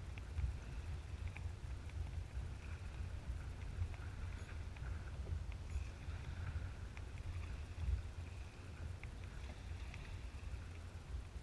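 Kayak being paddled on open water: paddle strokes, water splashing and lapping at the hull with small scattered drips and ticks, over a low steady rumble.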